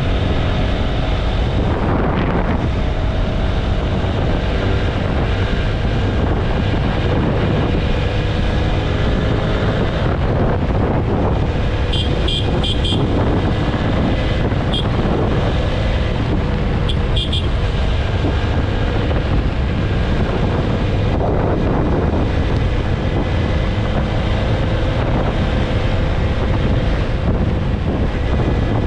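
TVS Apache RTR 160 4V motorcycle's single-cylinder engine running steadily at cruising speed, with heavy wind rush on the microphone. A horn sounds a quick series of short beeps about twelve seconds in, then single beeps twice a few seconds later.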